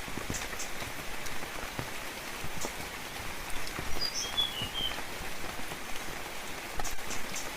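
Steady rain falling, with many individual drops striking close by. A bird gives a couple of short chirps about halfway through.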